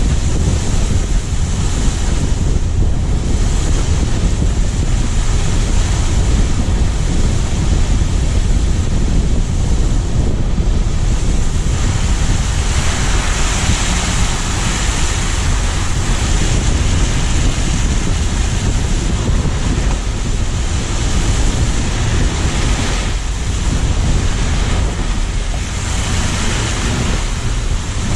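Wind rushing over the microphone of a camera mounted low on a moving car, mixed with steady road and tyre noise; the hiss grows brighter for a few seconds midway.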